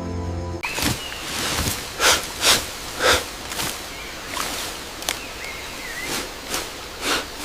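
Irregular crunching steps or rustles in dry leaf litter, about ten in seven seconds, some louder than others, with a few faint bird chirps between them.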